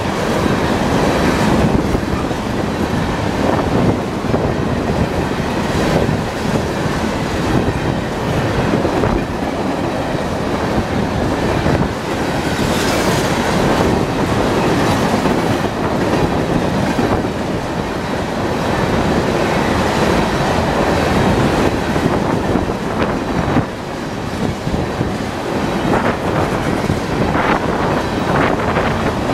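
A long freight train of tank cars rolling steadily past at close range. The wheels give a continuous rumble, with clickety-clack as they pass over rail joints.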